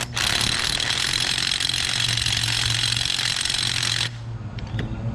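A power tool runs steadily for about four seconds, then cuts off, over a steady low hum.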